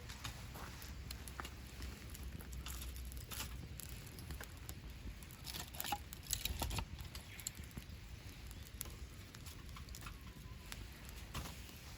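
Wood campfire crackling: irregular small pops and snaps from the burning wood, with a denser run of louder crackles about six to seven seconds in.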